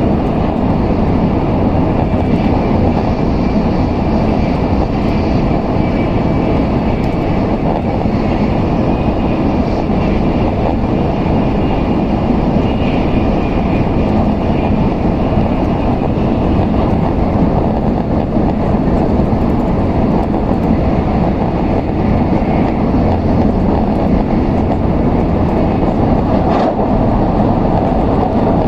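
Steady running noise of an N700S Shinkansen at speed, heard inside the passenger cabin: a constant low rumble with a faint higher whine above it.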